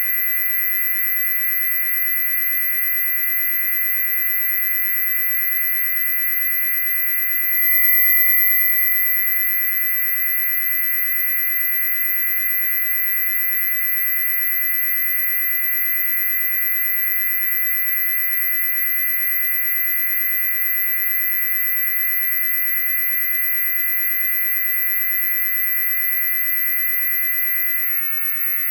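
Loud, steady electronic tones, several sounding at once, topped by a piercing very high-pitched whine. They swell briefly about eight seconds in and glitch for a moment near the end.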